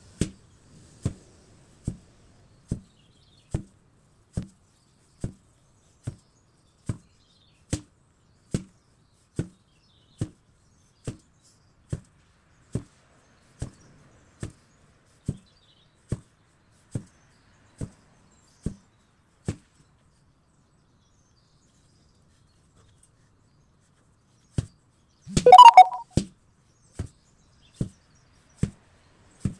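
An 8 kg sledgehammer striking in a steady rhythm, a little more than one blow a second. It stops for about five seconds in the second half. A single louder, noisy sound follows, and then the blows start again.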